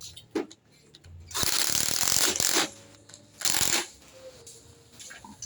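Compressed-air workshop tool running in two bursts, a long one of about a second and a half and then a short one, with a few light metallic clicks around them.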